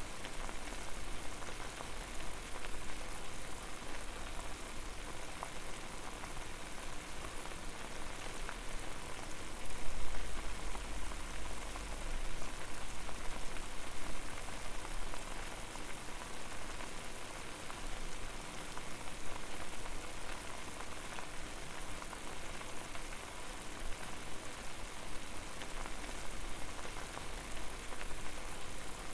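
Water boiling steadily, a continuous crackling bubbling hiss, with a louder, deeper surge of bubbling about ten seconds in.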